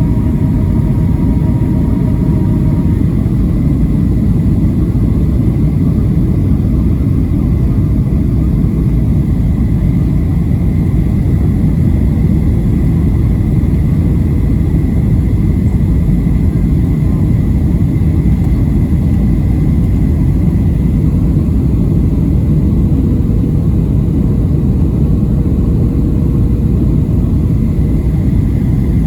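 Steady, loud cabin rumble of a Boeing 737-700 on approach to landing: its CFM56-7B engines and the airflow over the airframe, with a faint thin whine above it.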